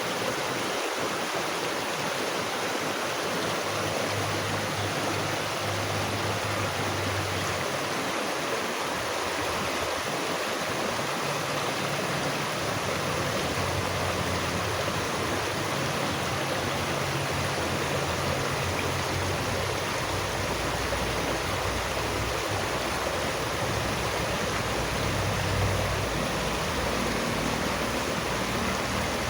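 Running water rushing steadily and evenly, with a faint low rumble underneath.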